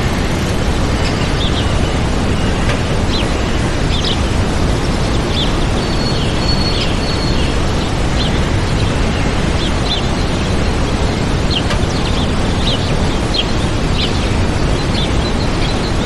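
Waterfall's steady rush of water, with small birds chirping over it in many short calls and one longer held whistle about six seconds in.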